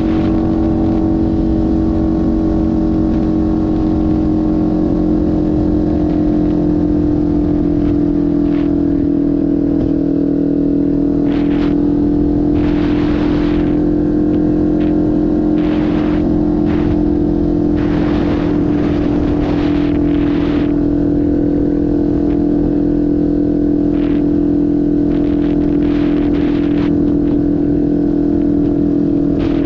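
Kawasaki Ninja 500 parallel-twin engine running at a nearly steady speed while the motorcycle is ridden, the pitch easing slightly lower through the middle. Occasional short rushes of noise come and go over the engine sound.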